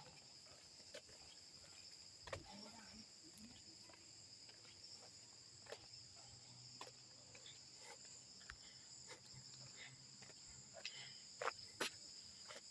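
Faint, steady high-pitched trilling of crickets in the evening, with a few soft clicks scattered through it.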